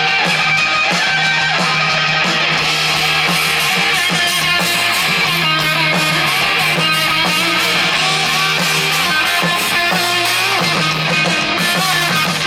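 Live rock band playing an instrumental passage of the song, with electric guitar out front over steady bass and drums, heard loud through the crowd's recording.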